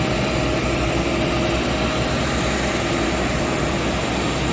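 Steady engine drone with a few faint, even whining tones over it, like aircraft engines idling at an airport.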